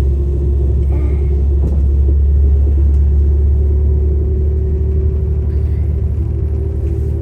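Passenger train running, heard from inside the carriage: a steady low rumble with a faint steady hum above it.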